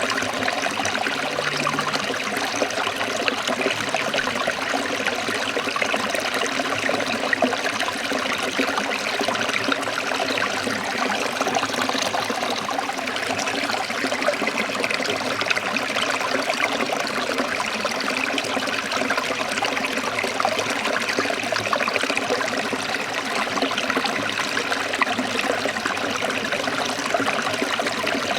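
A small stream or river trickling and splashing over rocks, a steady rush of running water.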